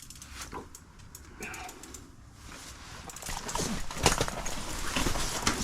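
Spinning fishing reel clicking irregularly as line is worked against a hooked fish, the clicks getting louder over the last couple of seconds.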